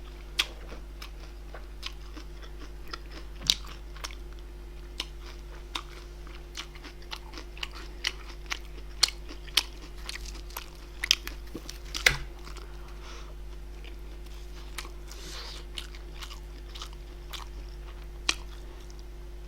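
A person chewing and biting food close to the microphone, with irregular crisp crunches and wet mouth clicks, thinning out toward the end.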